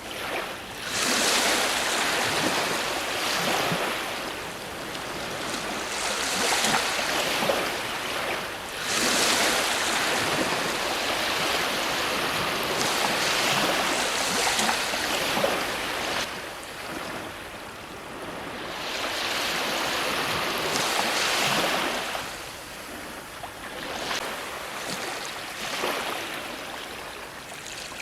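Ocean waves breaking and washing on a shore, a steady rush of surf that swells and ebbs in surges a few seconds long, one after another.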